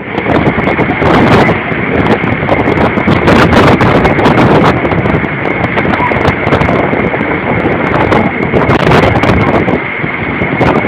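Strong storm wind blowing hard on the microphone: a loud, continuous rumbling noise with many sharp crackles, easing a little near the end.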